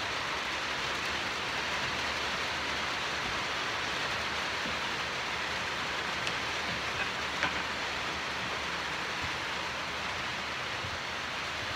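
Hard rain falling steadily, heard from inside the house.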